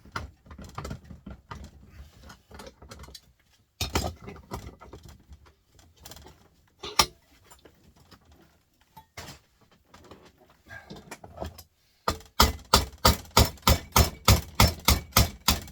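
Metal knocks and clinks as a small electric motor is worked apart for its copper, then a fast, regular run of sharp metal strikes, about four a second, in the last few seconds as the part is forced off.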